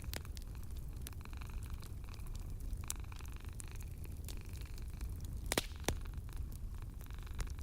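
Wood fire crackling in a fireplace: scattered sharp pops over a steady low rumble, with two louder pops in quick succession about two-thirds of the way through.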